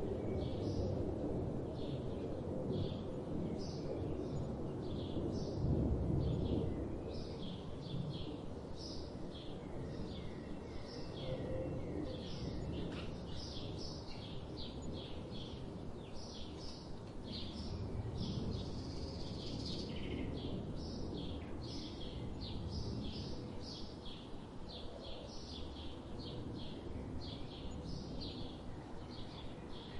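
Birds chirping in short, quickly repeated calls, about two a second, over a low steady rumble of outdoor background noise that swells briefly near the start.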